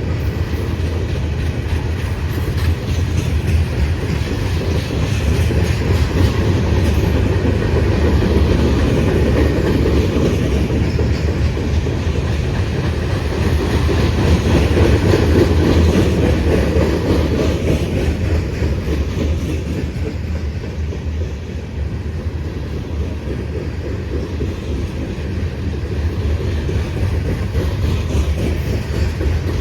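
A freight train's railcars rolling steadily past close by, a loud rumble of wheels with a fast clicking over the rail joints, swelling midway and easing slightly later on.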